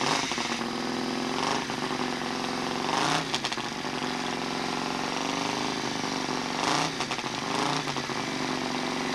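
Harley-Davidson motorcycle's V-twin engine idling and being revved several times, each rev rising and falling back to idle.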